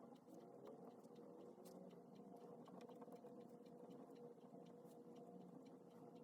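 Faint pen writing on paper: small, irregular scratches and ticks over a steady low room hum.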